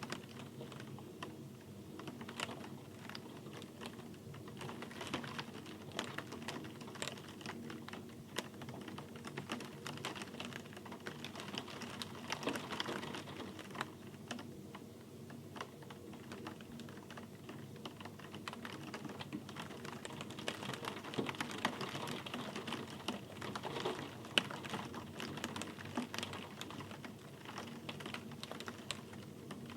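Rain, with a soft steady wash and many close drops tapping in quick, irregular clicks.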